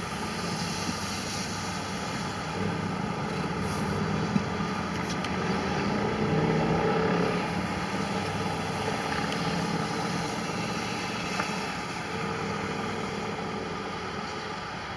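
Vehicle traffic passing on a wet road, one vehicle's engine and tyres swelling and fading about six to eight seconds in over a steady background hiss.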